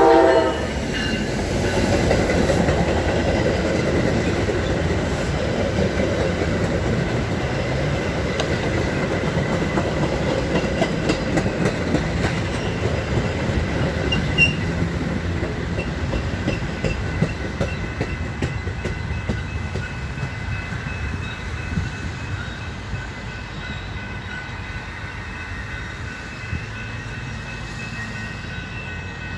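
Metra commuter train, led by an F59PHI diesel locomotive, rolling through the station. The wheels clack over the rail joints and a thin steady wheel squeal runs over the rumble, which slowly fades towards the end.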